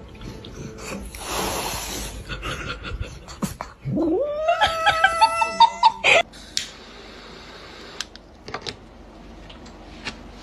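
A cat yowling: one long drawn-out call that rises in pitch and is held for about two seconds, starting about four seconds in. It follows a brief noisy rush about a second in.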